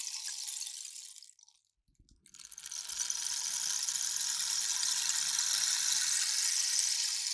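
Rain stick being tipped: a cascade of patter fades out about a second in, and after a brief pause a new, longer steady cascade starts as the stick is turned over again, like rain falling.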